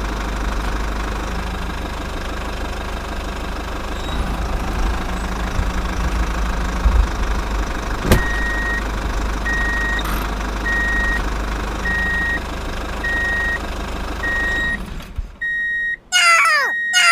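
Small engine running steadily. About halfway through a click, then a reversing beeper starts, beeping about once a second; near the end, quick falling whistle-like sweeps.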